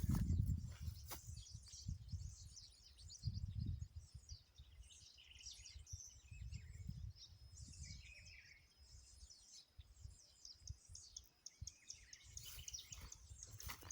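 Several small birds chirping and twittering in quick, overlapping calls, with intermittent low rumbling noise underneath.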